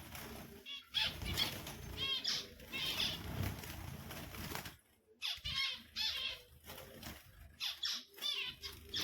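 Finches chirping in quick, repeated short calls, with wings fluttering. The flapping is heaviest in the first half, and there is a brief pause before the chirping picks up again.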